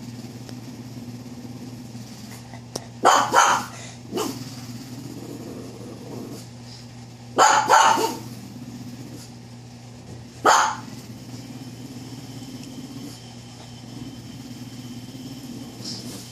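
A dog barking in short bouts: two barks about three seconds in followed by a softer one, two more a little past seven seconds, and a single bark at about ten and a half seconds. A steady low hum runs underneath.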